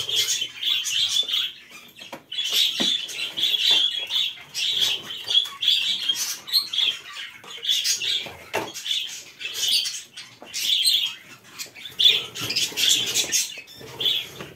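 Caged birds chirping in short repeated bursts, with scattered clicks and knocks throughout.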